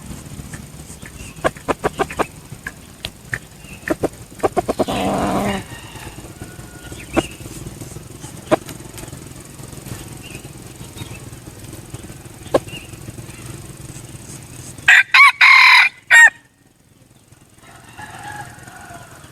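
Red junglefowl cock, a decoy bird, with short clucks and sharp clicks in the first few seconds, then one loud crow about three-quarters of the way in. A fainter call follows near the end.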